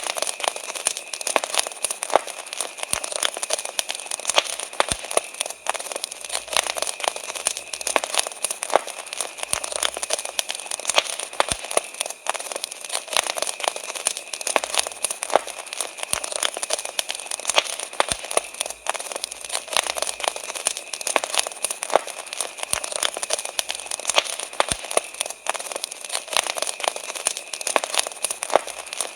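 Wood fire crackling and popping, many irregular sharp cracks over a soft hiss, with a steady high trill of crickets underneath.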